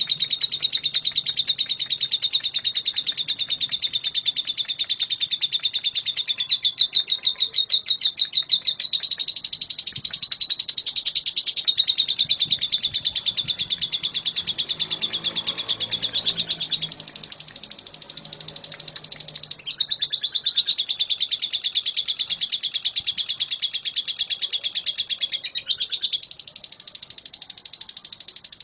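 Fischer's lovebird singing: a continuous, rapid, high-pitched chattering twitter, louder about seven seconds in and again about twenty seconds in, and softer near the end.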